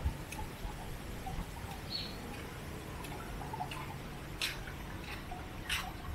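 Birds chirping: scattered short high calls, with a couple of sharper, louder chirps near the end, over a steady low background rumble.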